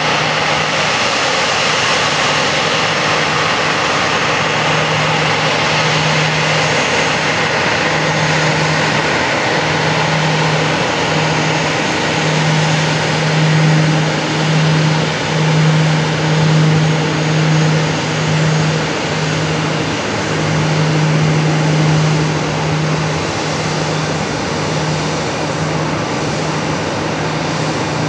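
Airbus A340-300's four jet engines running, a loud steady noise with a low hum that throbs about once a second from a few seconds in.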